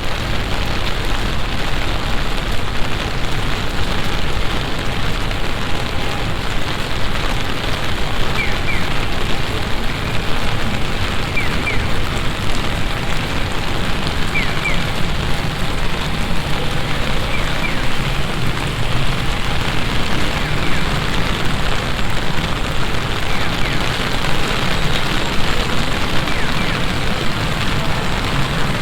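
Heavy summer shower pouring down steadily, a dense even rush of rain, with faint short paired chirps coming every three seconds or so.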